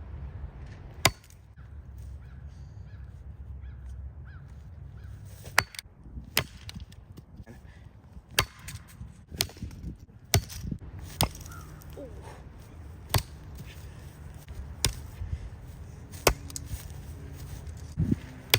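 Three-and-a-half-pound Truper axe striking die-cast toy cars: about eleven sharp metallic blows, one every second or two, after a pause of several seconds following the first.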